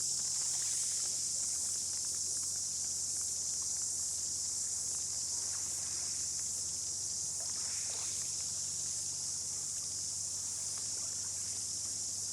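Dense insect chorus, a steady high shrill drone, with a faint low steady hum underneath.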